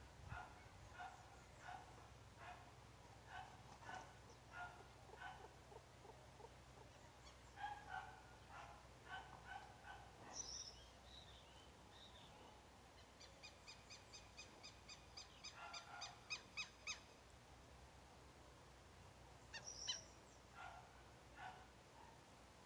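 Several birds calling: short calls repeated throughout, a falling whistle about ten seconds in, and a rapid run of high notes a little later.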